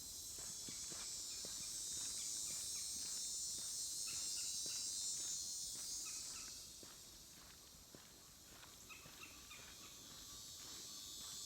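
A steady, high-pitched drone of insects calling in a swamp, easing off after about six seconds, with footsteps on the trail underneath.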